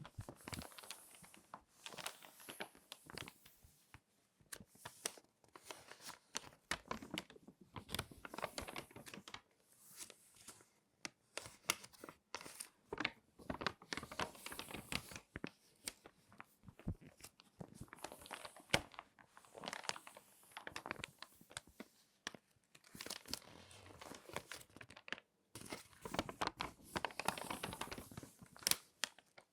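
Crinkly magazine pages being folded and creased by hand. They crackle and crinkle in irregular spells with brief pauses between.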